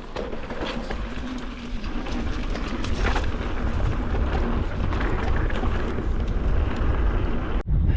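Mountain bike being ridden on a dirt trail: wind rushing over the microphone and the tyres rumbling, with scattered rattles and clicks. The sound drops out briefly near the end.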